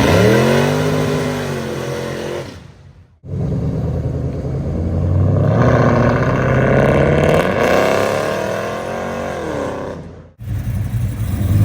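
Muscle car engines accelerating hard. One revs up and pulls away, then the sound cuts off suddenly. A second car climbs in pitch as it passes, then drops away before another sudden cut.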